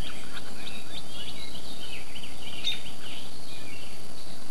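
Several small birds giving short, repeated chirps over a steady outdoor noise, with a thin, steady high whine throughout.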